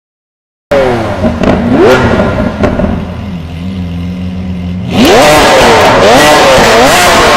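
Lamborghini Aventador V12 engines revving. Just under a second in, a rev drops back with a few sharp cracks and settles to a lower, steadier note. About five seconds in, loud, repeated quick throttle blips begin, with the pitch rising and falling about every second.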